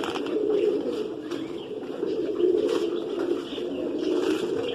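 Pigeons cooing continuously, many calls overlapping into a steady low murmur, with a few faint clicks on top.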